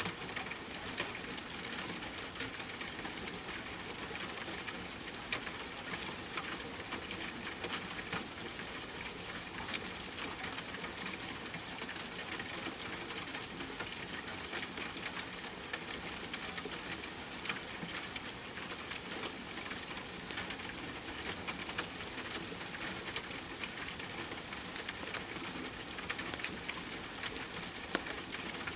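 Steady rain hiss mixed with the crackle of a wood fire, with frequent small pops and clicks scattered throughout.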